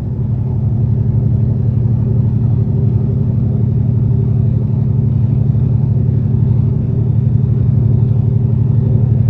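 Western Star semi truck's diesel engine running under way, a steady low drone heard from inside the cab, growing slightly louder over the first second or two.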